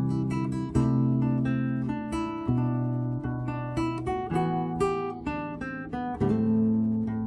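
Solo acoustic guitar playing an instrumental melody, with picked notes and chords changing every half second or so over ringing bass notes.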